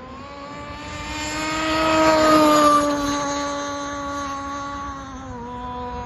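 Gas-powered Skater RC boat's two-stroke engine running at high speed, growing louder to a peak about two seconds in as it passes, then fading with a falling pitch and a further small drop in pitch near the end.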